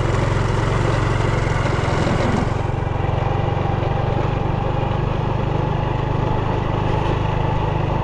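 Vehicle engine running at a steady speed while being driven along, with a rushing hiss that eases about two and a half seconds in.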